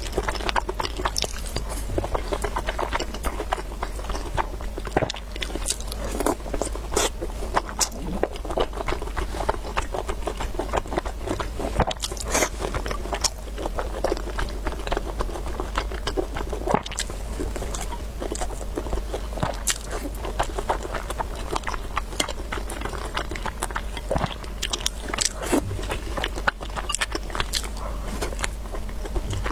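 A person eating glutinous rice close to the microphone: chewing and biting, with frequent small irregular clicks. A steady low hum runs underneath.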